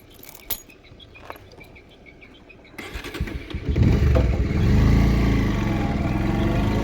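Motorcycle engine being started: a few small clicks, then about three seconds in it turns over and catches, settling into a steady running idle.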